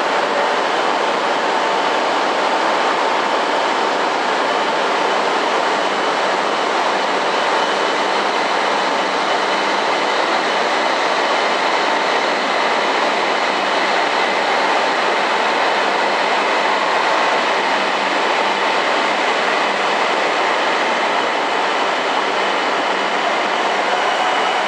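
E7 series Shinkansen train pulling slowly out of a station platform, its cars rolling past with a steady running noise and a few steady whining tones; a faint whine rises near the end as it gathers speed.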